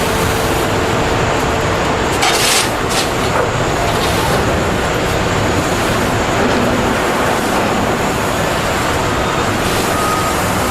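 Steady loud industrial machinery din, with a brief hissing burst about two seconds in.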